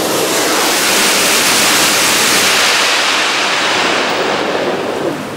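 Shinkansen train passing through a station at full speed without stopping: a loud rush of air and wheels on rail that swells to a peak about two seconds in and then fades.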